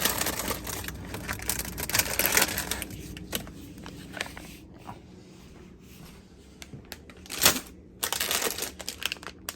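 Rustling and clicking of bags and packaged food being handled and packed, busy at first and sparser later, with one sharp knock about seven and a half seconds in.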